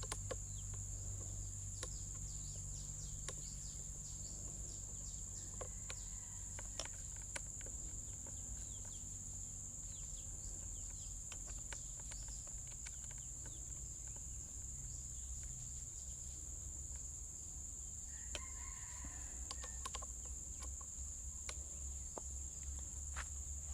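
Steady high drone of crickets over a low hum, with scattered light clicks and taps of a hex key and metal parts as the tool's locking screw is tightened. A brief animal call comes about three-quarters of the way through.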